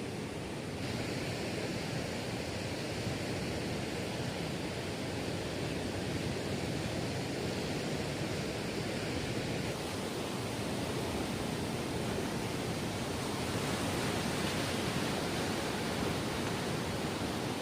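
Steady rushing noise of surf and wind along a beach, even and unbroken with no distinct events.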